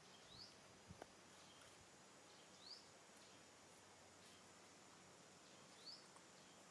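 Faint bird chirps: a short rising note repeated three times, a couple of seconds apart, with a soft knock about a second in.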